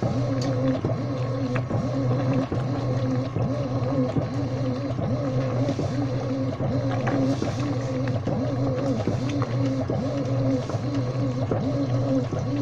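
Washing machine running: a steady motor hum with wavering tones and faint scattered clicks.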